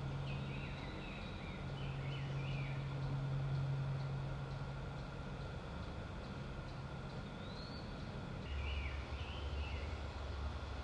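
Small birds chirping in short runs of quick notes, once near the start and again near the end, over a steady low hum.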